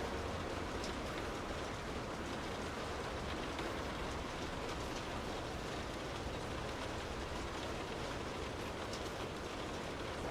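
Steady rain falling on and around a car: an even hiss with a low rumble beneath it and a few faint drip ticks.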